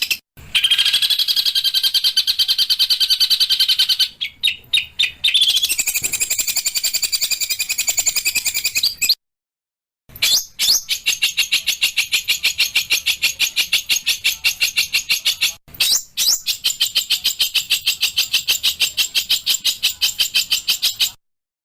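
Small songbirds giving fast, harsh, evenly repeated trills, about seven notes a second, in long runs broken by short gaps, with a second of silence about nine seconds in. It is an edited bird-song tutor (masteran) recording of rough, dense 'shot' calls.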